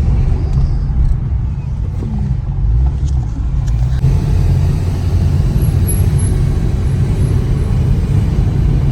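Steady low rumble of a car driving along a road, heard from inside the car.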